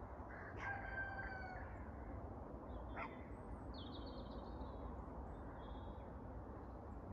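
Faint bird calls over a low steady rumble: one drawn-out call starts about half a second in and lasts about a second, then a short sharp call comes a few seconds in, followed by brief high chirps.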